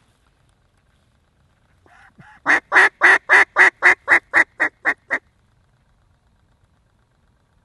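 Mallard duck call blown by a hunter: a run of about eleven loud, sharp quacks, slightly quickening, after a couple of soft notes, starting about two and a half seconds in and stopping about five seconds in.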